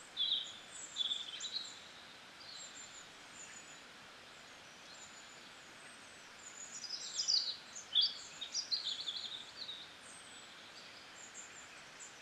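Small birds chirping and trilling with short high calls over a steady faint hiss. There is a spell of calls about the first second and a busier one from about six to nine seconds in.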